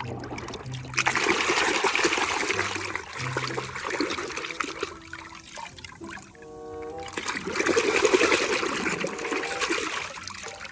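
Running water gushing in two long spells, about four seconds each with a short break between, as toys are washed. Light background music plays under it.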